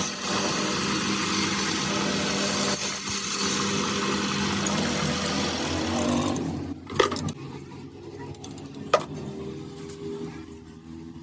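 A power tool running steadily with a hum and hiss, which stops about six and a half seconds in, followed by two sharp knocks.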